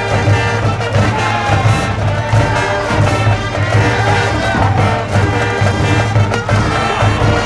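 High school brass band playing a baseball cheering tune, with trumpets and trombones over a steady bass drum beat.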